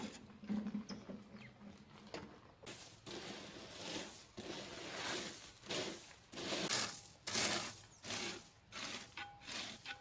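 Repeated rough scraping strokes in soil, starting a few seconds in and coming a little more than once a second: earth being dug or worked by hand while plants are set in.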